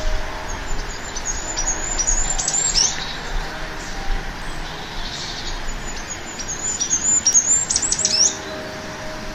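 Small birds chirping: quick, high, downward-sweeping notes that come in two dense runs, about a second and a half in and again about six and a half seconds in.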